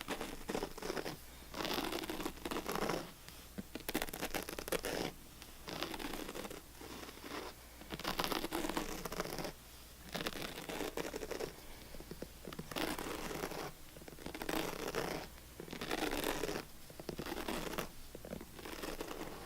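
Scratching on a surface in a run of repeated strokes, some short and some lasting a second or more, coming irregularly about once a second.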